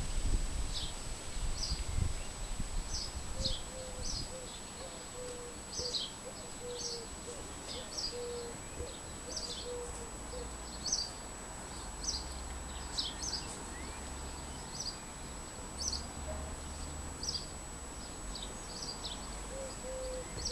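Small birds chirping outdoors, short high chirps about once or twice a second, over a steady thin high tone and low background rumble.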